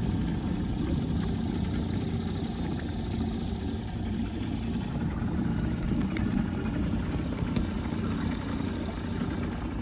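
Small outboard motor running steadily, with water and hull noise mixed in.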